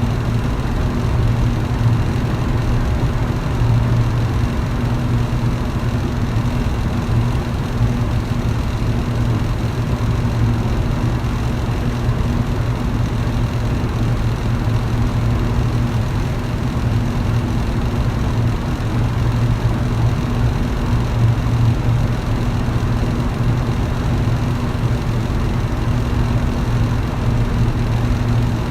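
Electric fan running steadily: a constant low motor hum over an even rush of air.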